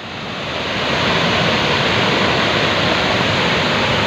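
Waterfall: a steady rush of falling water that grows louder over about the first second, then holds steady.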